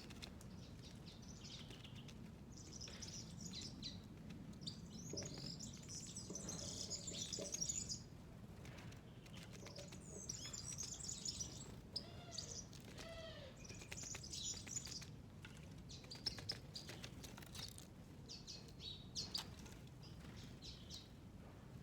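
Small birds chirping and twittering in repeated high bouts, with a few lower arched notes about twelve seconds in.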